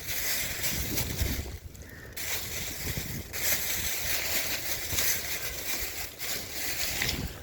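Gusty wind buffeting the microphone, with a rushing hiss that drops away briefly about two seconds in and again just after three seconds.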